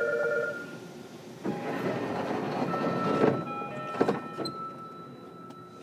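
Interior sound of a JR Kyushu 305 series electric train car with a Toshiba permanent-magnet motor drive. A rush of noise lasts about two seconds, then a sharp clack comes about four seconds in, over faint steady tones.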